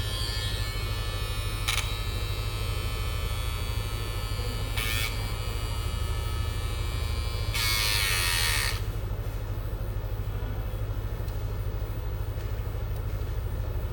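Small battery trimmer motor running with a steady electric buzz, after its repair. It gets briefly louder twice, then louder for about a second near the middle, after which the high buzz drops away and leaves a low hum.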